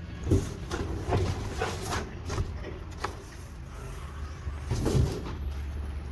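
Knocks, thumps and scraping as a plastic-bodied top-load washing machine is handled and pulled out of its cardboard packing, with the loudest bumps about a third of a second in and again about five seconds in.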